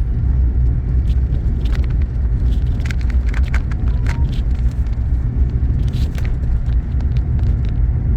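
Steady low rumble of a car driving: engine and tyre noise on the road, with a few faint scattered clicks.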